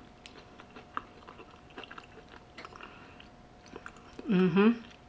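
A person chewing a piece of roasted sweet potato close to the microphone: soft, scattered wet clicks of the mouth. A short vocal sound, about half a second long, comes a little past four seconds in and is the loudest thing heard.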